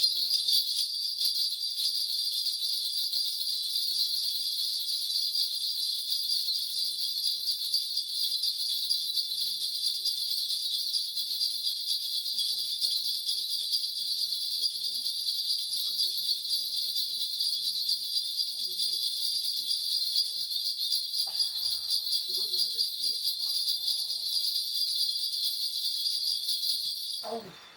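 Korean shaman's spirit bells (bangul) shaken without pause in a steady bright jingle during a divination, stopping abruptly near the end.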